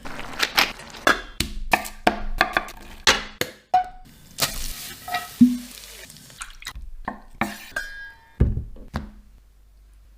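Food being prepared: a quick, irregular series of knocks and clinks from utensils and cookware, a few ringing briefly, which dies down near the end.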